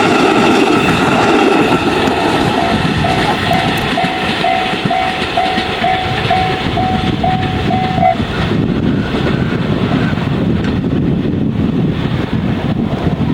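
A 211-series electric train running over the tracks through a level crossing, its wheels clattering on the rails. Over it the crossing's electronic warning bell (JR standard tone) rings about twice a second, then stops about eight seconds in as the train clears.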